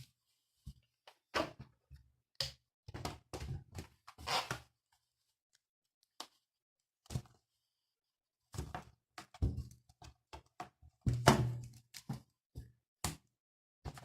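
Short thunks, taps and rubbing sounds from handling an inflated latex balloon, coming in scattered clusters with silent gaps; the loudest thunk is about eleven seconds in.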